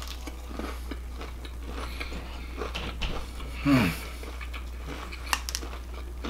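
A person chewing a piece of fried shrimp with a crisp batter coating, with faint clicks and mouth sounds. About two thirds of the way in comes a short hum from the eater that falls in pitch.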